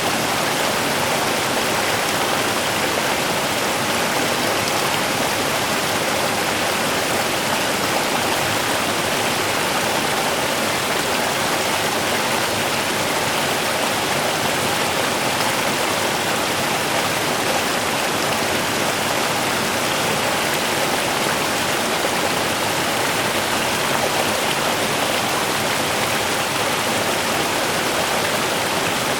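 A small river running steadily over stones, an even rushing and babbling with no change.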